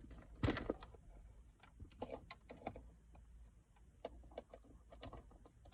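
Irregular light clicks, taps and rustles of small objects being picked up and handled, with a sharper knock about half a second in.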